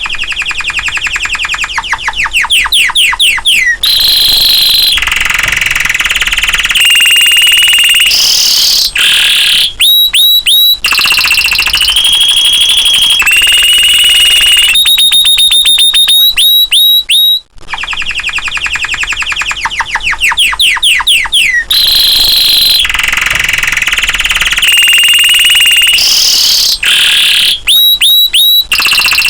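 Domestic canary in full song: a loud, unbroken run of rapid trills, fast rolling sweeps and shrill held notes. The same sequence of phrases starts over about halfway through.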